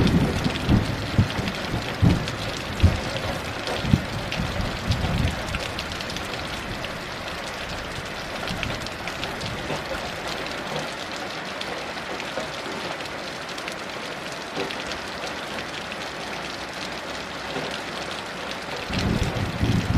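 Steady heavy rain, with low rumbles of distant thunder over the first five seconds that die away, and rumbling again near the end.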